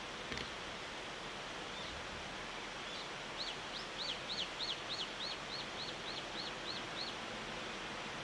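A bird calling the same short high chirp about a dozen times in a quick even run, roughly three a second, over a steady background hiss. A single faint click comes just after the start.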